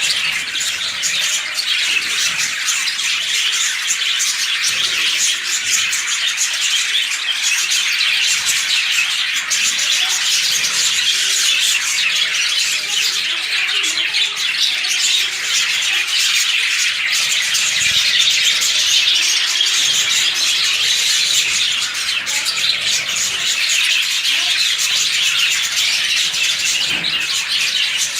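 A flock of lovebirds chattering and squawking without pause, many high calls overlapping into a continuous din.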